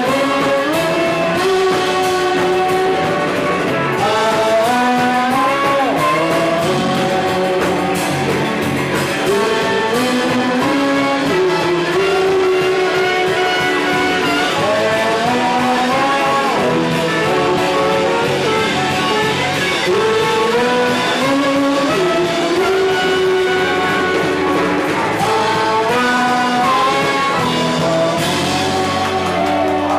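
Live band playing a song, with a melodic lead line of held notes stepping up and down over the band.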